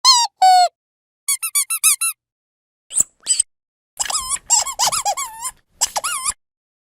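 Rubber squeaky dog toy squeezed again and again in bursts. First come two squeaks, then a quick run of about six short ones, then a pair near the middle, then a dense flurry lasting about two seconds, with silent gaps between the groups.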